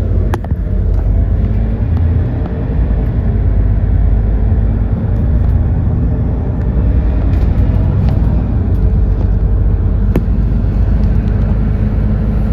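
Doosan GX12P natural-gas engine of an Edison Motors Smart 110G city bus running steadily as the bus drives, a loud low rumble heard from inside the bus, with a light tick about ten seconds in.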